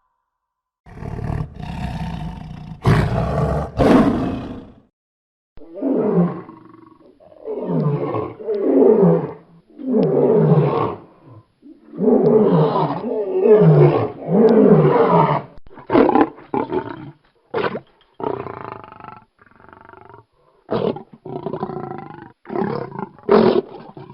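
Lion roaring: a bout of deep calls, each falling in pitch, that shorten into a run of short grunts in the second half.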